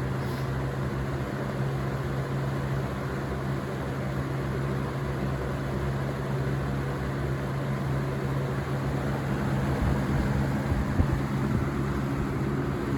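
1994–95 Lasko box fan running steadily on medium speed: electric motor hum with the rush of air from the blade. A few low thumps come in near the end.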